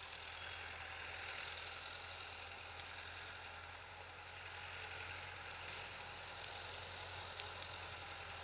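T-40 wheeled tractor's diesel engine running steadily at a low idle, faint, with a constant low hum.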